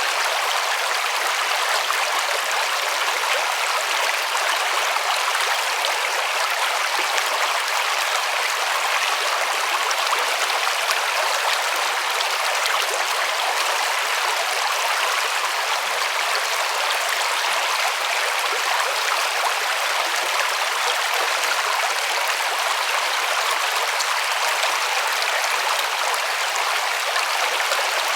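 River water running over rocks: a steady, even rush with no breaks.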